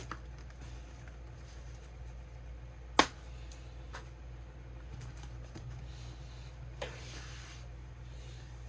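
Plastic storage cases being handled: a sharp click about three seconds in, a few fainter clicks and knocks, and a brief rustle near the end, over a low steady hum.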